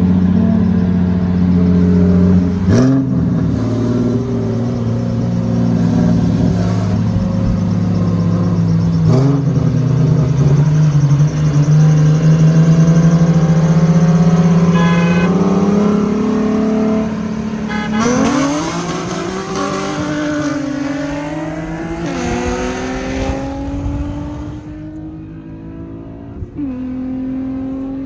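Car engine at full throttle in a roll race, rising in pitch through each gear with shifts about 3, 9 and 18 seconds in, where the pitch drops suddenly. The revs then climb again and the engine eases off near the end.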